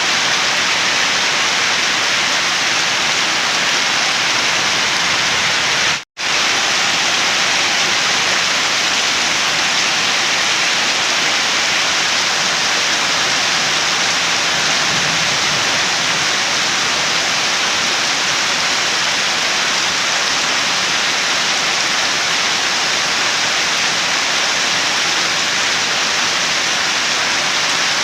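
Steady heavy rainfall, an even hiss of rain with no let-up. About six seconds in it cuts out for a split second, then resumes.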